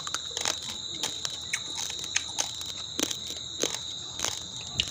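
Raw Miniket rice grains being crunched between the teeth: irregular sharp crunches, a few a second. A steady high-pitched whine runs underneath.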